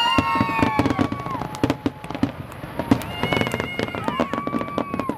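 A fireworks display going off: rapid crackles and bangs from bursting shells. Several long, steady whistling tones overlap on top of them, each lasting about a second.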